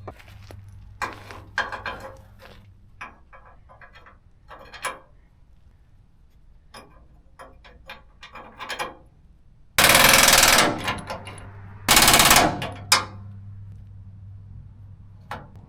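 Clinks and knocks of tools and metal parts being handled on the truck's cab mounts, then two short, loud bursts of a power tool, about a second long and then half a second long, a second apart.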